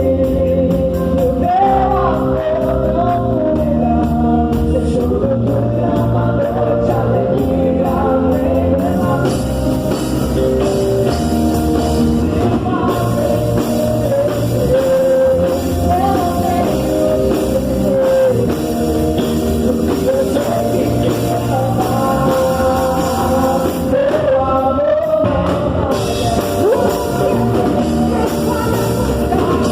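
A Portuguese-language gospel praise song sung over a full band accompaniment, with the singing held in long melodic lines.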